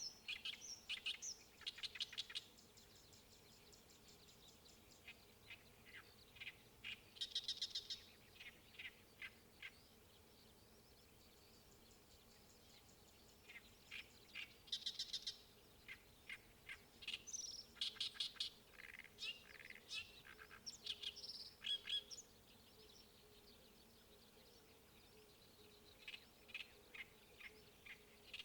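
A songbird singing in phrases of quick, sharp repeated notes, each phrase lasting a few seconds, with pauses of several seconds between them.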